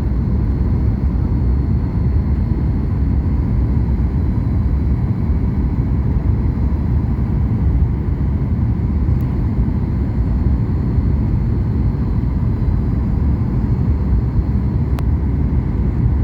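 Steady low rumble inside the cabin of a Boeing 737 MAX 8 airliner moving through its arrival: engine and airflow noise that holds even throughout, with faint steady tones above it.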